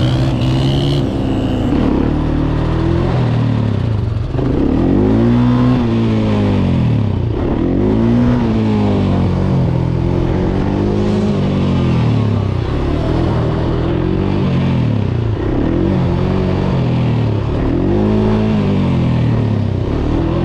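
A vehicle engine revving over and over, its pitch climbing and dropping back roughly every two to three seconds.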